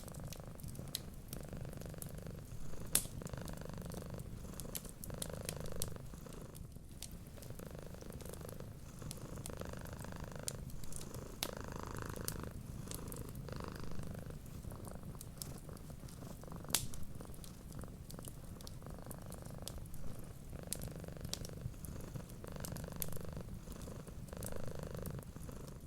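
A cat purring steadily, the purr swelling and fading with each breath about once a second. Sharp pops and crackles from a wood fire come through now and then, two louder pops standing out.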